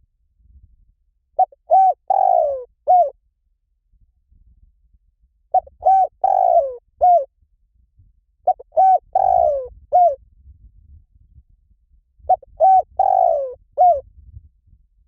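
Spotted dove cooing: four repeated phrases about every four seconds, each two short coos, a longer falling coo and a short closing coo.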